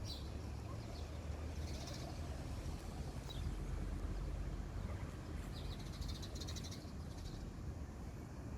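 Birds chirping in short bursts, with one longer rapid trill past the middle, over a steady low rumble of wind on the microphone.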